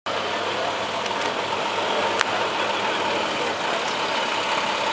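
Steady engine running at idle, with a single sharp click about two seconds in.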